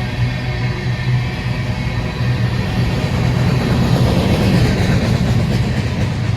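Train with diesel locomotives going by, a steady low engine drone that swells a little past the middle.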